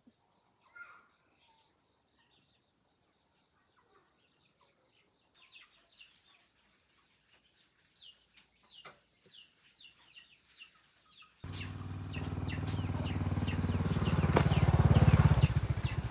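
Outdoor ambience of a steady high insect drone with short, repeated bird chirps. About two-thirds of the way through, a loud, low, rapidly pulsing motor drone cuts in abruptly and swells before easing near the end.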